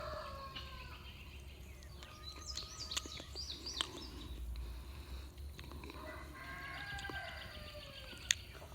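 Faint poultry calls with chirping in the background: short calls about two to four seconds in and a longer wavering call later. A few light clicks and one sharp click come near the end.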